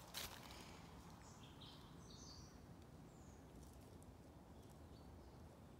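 A single footstep on dry leaf litter right at the start, then a few faint, short, high bird chirps in quiet woodland.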